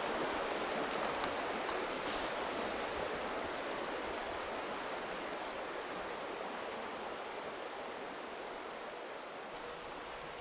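River water flowing: a steady rush that slowly grows quieter, with a few faint ticks in the first few seconds.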